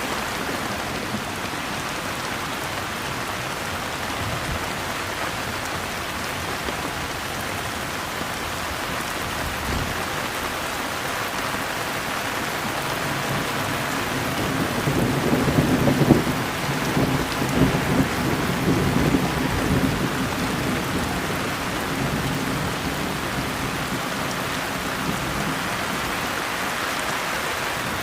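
Steady rain falling in an even hiss, with a low rolling rumble of thunder about halfway through that lasts several seconds before fading back under the rain.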